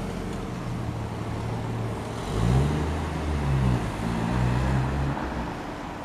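Classic American car engine running, then revving up about two seconds in. Its pitch rises and falls a few times before easing off near the end.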